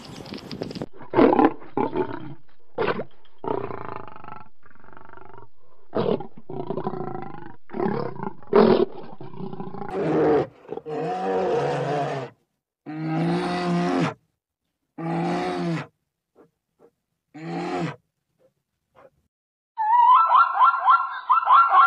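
A series of animal roars and growls: short, sharp ones first, then longer, deeper roars lasting about a second each. Near the end comes a rapid run of high, yelping calls.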